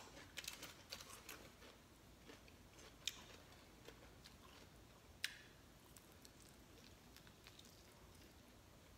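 Faint chewing and small mouth clicks from eating chicken wings, with a couple of sharper ticks, over near-silent room tone.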